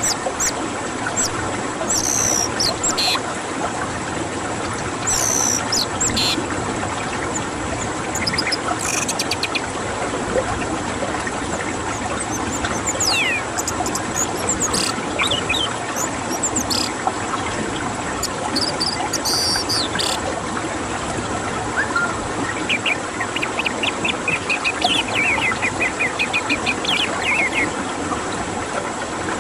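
Orange-headed thrush song: short, high, sweeping whistled notes every few seconds, then a run of rapid twittering notes lasting several seconds in the second half, over a steady background hiss.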